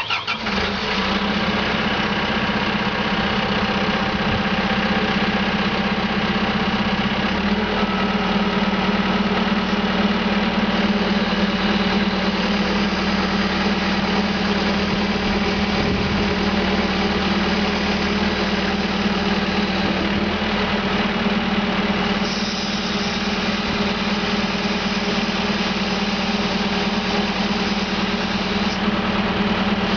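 Caterpillar 420E backhoe loader's diesel engine catching right at the start and settling into a steady idle.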